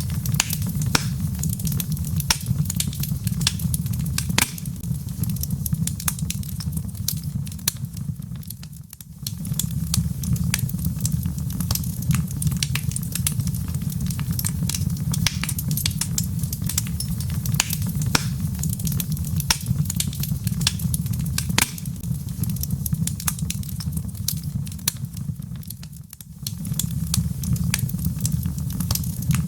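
Wood fire in a fireplace crackling, with many sharp pops and snaps over a steady low rumble. The sound dips briefly twice, about nine seconds in and again near twenty-six seconds.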